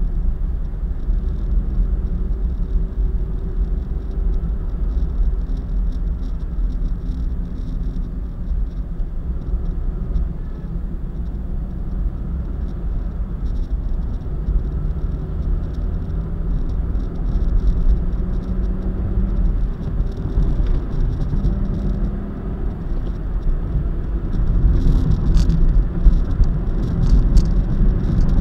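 Road and engine noise of a car driving at speed on an expressway: a steady low rumble with a faint engine hum. A few sharp crackles come near the end.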